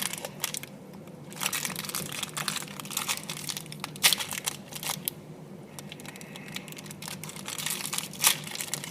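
Plastic chocolate wrapper being crinkled and pulled at, in irregular bursts of crackling.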